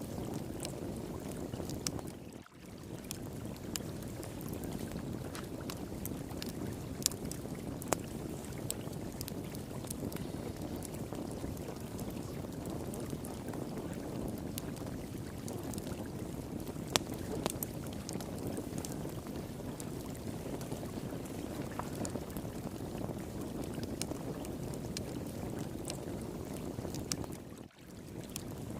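Flowing water rushing steadily, with a wood fire pit crackling over it in scattered sharp pops and snaps, a few louder than the rest. The whole sound dips out briefly twice, once early and once near the end.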